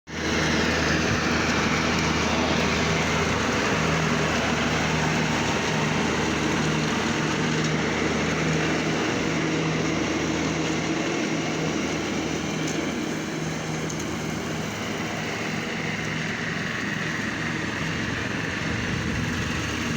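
John Deere tractor engine running steadily at a constant speed.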